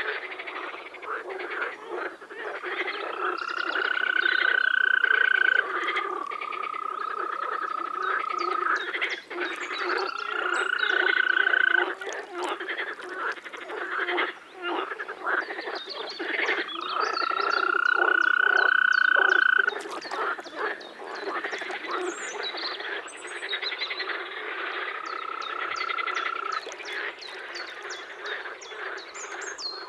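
European green toads calling: long, steady musical trills of two to three seconds each, five in all, from at least two toads at slightly different pitches. Behind them is a dense chorus of rapid clicking frog calls.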